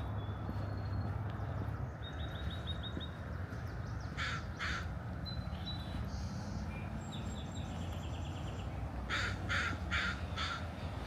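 A crow cawing: two harsh caws about four seconds in, then a run of four near the end. Faint high trilling calls of a small bird come in between.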